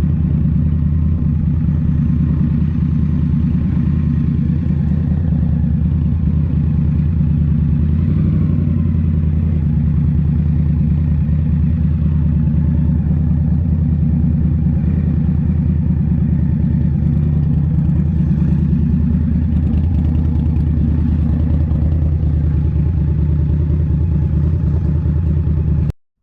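2023 Indian Scout Rogue's 69 cu-in V-twin, fitted with a Rinehart slip-on exhaust, running at a steady, nearly unchanging engine speed. The sound cuts off suddenly just before the end.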